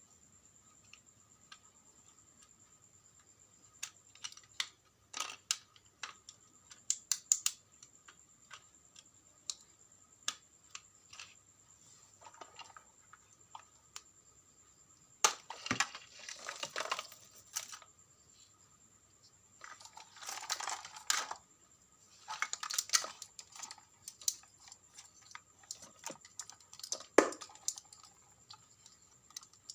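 Hands working on a small appliance: scattered clicks and taps of plastic parts and small tools, with a few longer scraping or rustling stretches and one sharper knock near the end. A faint steady high whine sits underneath.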